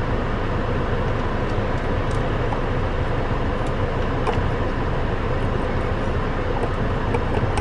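The 2015 Dodge Dart's 2.4-litre four-cylinder engine idling, heard from inside the cabin as a steady, even running noise with a low hum and a few faint ticks.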